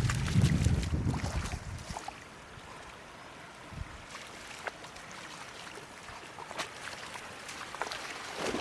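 Shallow floodwater sloshing and splashing, louder and heavier in the first two seconds, then scattered small splashes.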